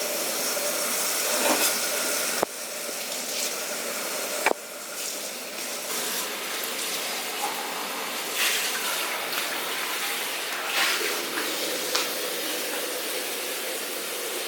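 Food sizzling in a pan, with a steady hiss like running water. The sound changes abruptly twice, about two and a half and four and a half seconds in.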